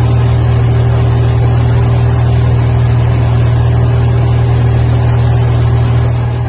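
Steady cabin drone of an aircraft in flight, heard inside the cockpit: a loud, even hum of engine and airflow noise with low steady tones, starting to fade near the end.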